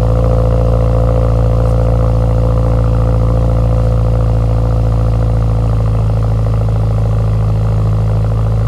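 Subaru WRX's turbocharged flat-four idling steadily through a newly fitted Tomei Ti Expreme titanium single-exit exhaust, loud and even with no revving.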